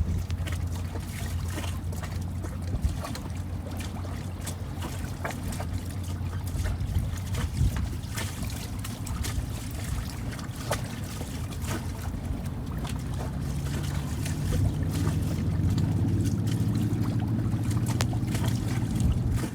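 Small outboard motor on an inflatable dinghy running steadily, with water slapping and splashing against the hull. About two-thirds of the way through the motor gets louder and its pitch rises, as if throttled up.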